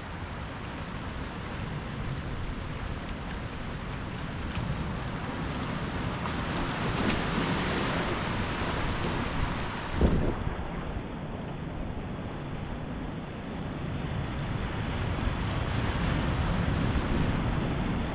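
Ocean surf breaking and washing ashore, swelling and easing in waves, with a short low thump about ten seconds in.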